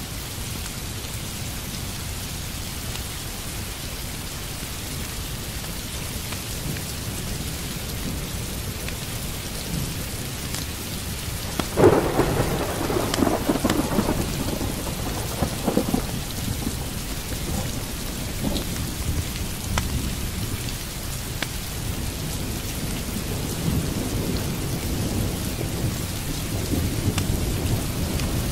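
Steady rain falling, with a crack of thunder about twelve seconds in that rumbles on for several seconds, and more low thunder rumbling near the end. A few faint pops of a crackling wood fire sound here and there.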